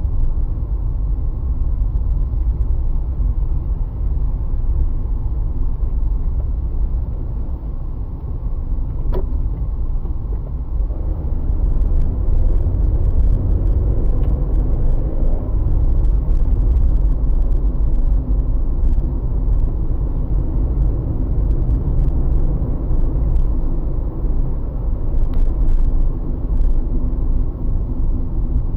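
Car driving, the engine and tyre rumble heard from inside the cabin, growing a little louder about twelve seconds in with a faint rising engine note. A single sharp click about nine seconds in.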